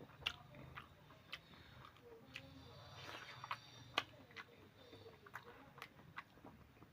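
A person chewing a piece of pork close to the microphone, with irregular wet mouth clicks and smacks. The sharpest come a moment after the start and about four seconds in.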